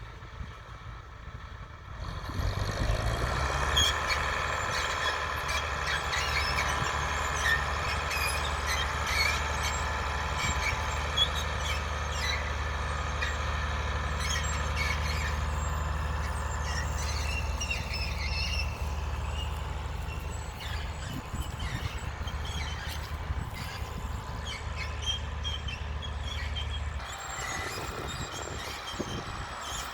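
Överum plough squeaking and creaking like an old spring bed as it is pulled through the soil, over the steady hum of a Case IH 1056 XL's six-cylinder diesel engine under load. The engine hum falls away near the end.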